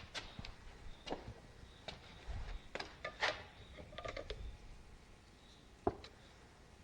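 Hand tools being handled during thread-cutting work on metal: scattered light clicks and knocks, a brief rattle about three seconds in, and a sharper click near the end.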